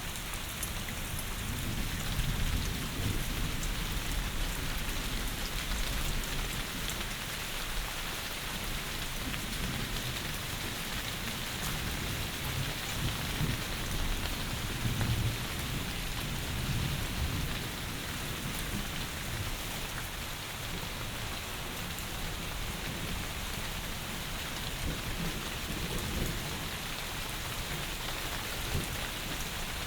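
Heavy rain falling steadily, an even hiss of rain, with a low rumble underneath that swells and fades, strongest about halfway through.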